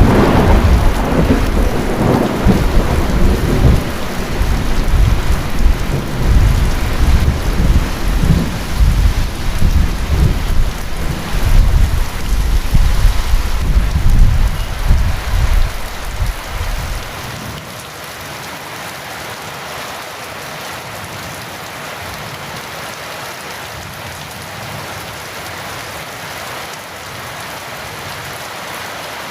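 Heavy rain with long rolling thunder that rumbles and swells for over half the time, then stops abruptly about two-thirds of the way in, leaving steady rain.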